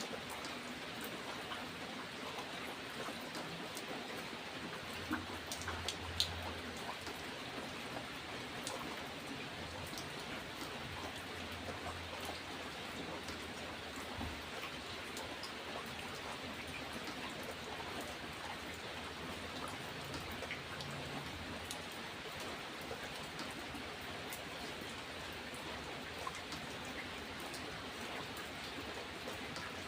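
Steady rain falling, an even hiss of rainfall with individual raindrops ticking through it. A couple of sharper drop hits stand out about five to six seconds in.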